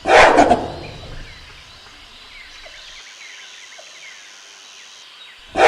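Gorilla beating its chest: a quick volley of thumps that fades within about a second, heard twice, the second near the end. Faint chirps run between the volleys.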